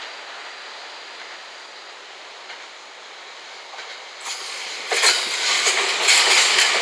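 JR West 227 series three-car electric train approaching and then running past close by. It is faint and steady at first, grows louder about four seconds in, and then turns loud with the wheels clattering over the rail joints as the cars go by.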